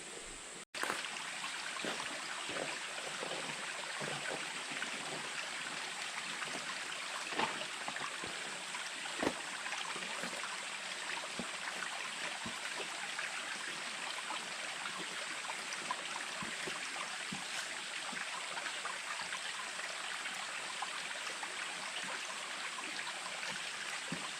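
Water running in a stream: a steady rush with many small splashes and drips. It cuts in abruptly just under a second in.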